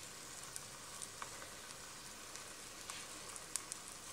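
Chicken cutlet batter faintly sizzling in shallow cooking oil in a nonstick pan, a steady hiss with a few small crackles scattered through it.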